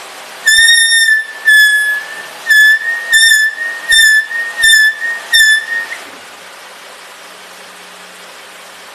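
Disc brake on a Nissan Teana's left wheel squealing, with the tyre off: a high-pitched squeal in about seven short pulses over some five seconds as the brake is lightly applied while reversing, then it stops. The squeal comes only when reversing with light braking and is caused by slight rubbing between the brake pads and the brake disc.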